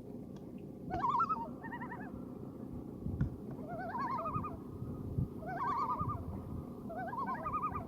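Common loons calling: four wavering calls, each about a second long, the pitch bouncing up and down.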